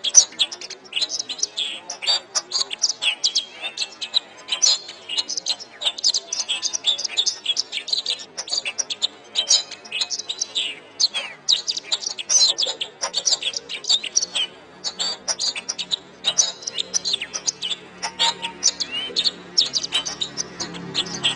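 Domestic canary singing a fast, unbroken song of rapid chirps, trills and short pitch glides. A low steady hum rises underneath in the last several seconds.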